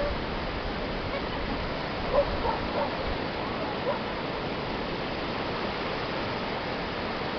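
Steady rush of surf and wind at the shore, with distant voices calling out a few times about two to four seconds in.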